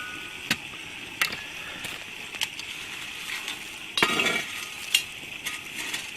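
Roast lamb and vegetables sizzling in an open camp oven, with a metal utensil clinking sharply against the pot every second or so as the pieces are turned. The clinks bunch into a louder scrape and clatter about four seconds in.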